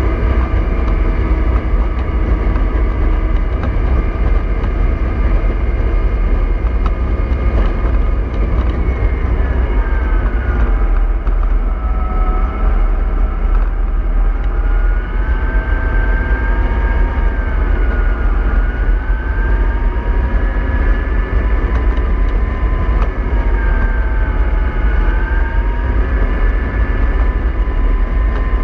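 MAN 24.310 bus engine running under a steady low rumble, its pitch dropping about a third of the way in, then rising and falling several times as the revs change.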